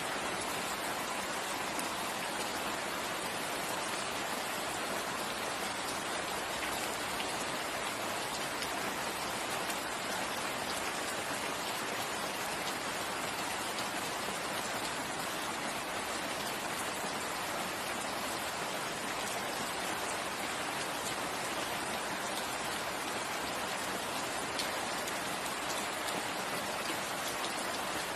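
Steady rain falling on forest foliage and ground, an even, unbroken patter.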